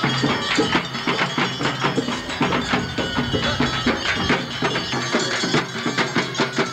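Traditional drum-led music: fast, dense percussion strokes with a few held higher notes over them.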